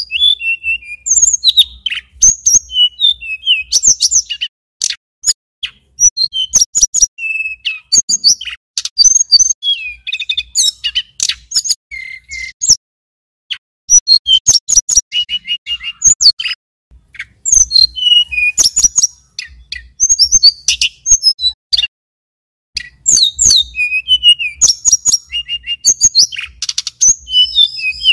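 Male tledekan gunung (sulingan gunung) singing: phrases of rapid, high chirps, trills and short whistles with brief pauses.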